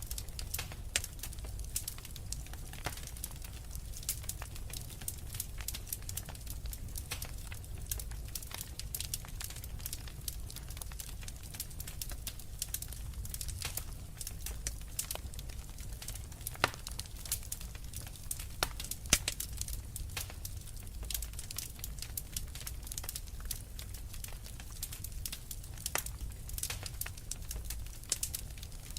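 Wood fire burning in a fireplace: a low steady rumble with constant crackling and small pops, a few sharper pops standing out now and then.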